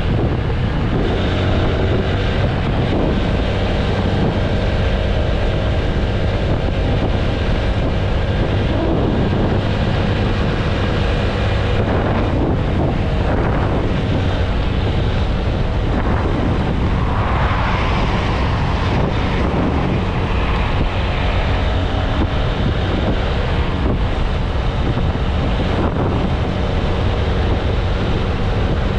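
TVS Apache RTR 160 4V single-cylinder motorcycle engine running steadily at highway cruising speed, under heavy wind buffeting on the microphone. A louder rush of higher noise swells for a few seconds about two-thirds of the way in.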